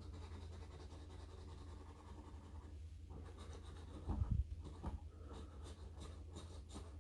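Faint scraping of an instant lottery scratch-off ticket being scratched off, with a low thump about four seconds in.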